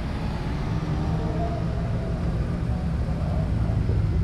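Car engines running at low revs through their exhausts, a steady low drone that grows slightly louder near the end.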